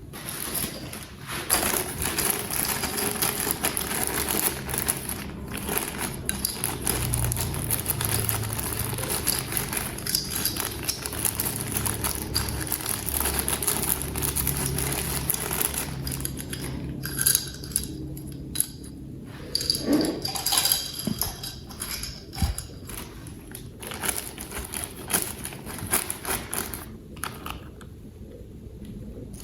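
Hands handling plastic toy parts and packaging, with dense clicking, rattling and crinkling that thins out near the end.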